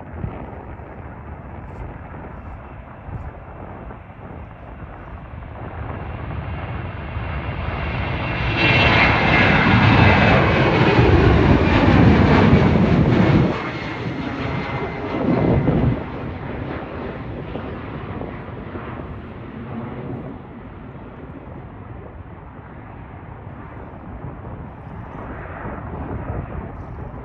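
Jet engines of an Embraer E190 airliner at takeoff power as it passes by. The sound swells over several seconds, is loudest for about five seconds with a falling pitch, drops off abruptly, swells once more briefly and then fades away.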